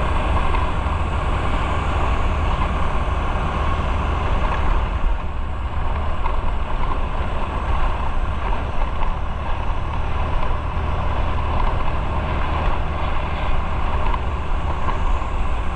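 Motorcycle riding on the road: steady wind rush over the microphone with a low rumble of engine and road noise.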